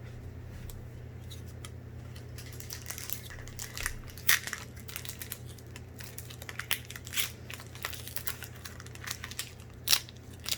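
A foil Pokémon booster pack wrapper crinkling and crackling as it is handled and opened, with two sharper snaps, one about four seconds in and one near the end. A steady low hum sits under it.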